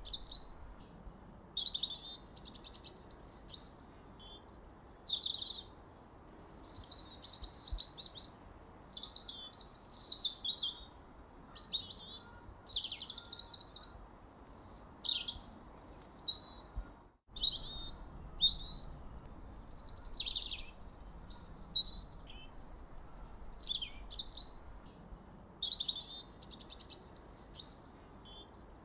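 Birds singing, short chirping and trilling phrases one after another with brief pauses between them, over a faint steady background hiss. The sound cuts out for an instant about two-thirds of the way through.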